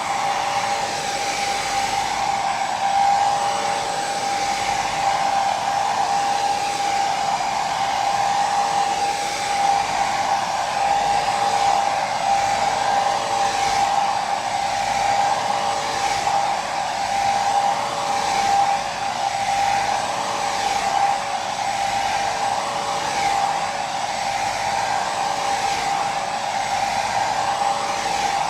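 Electric hair dryer running steadily, its airflow rushing over a constant motor whine, used as continuous white noise.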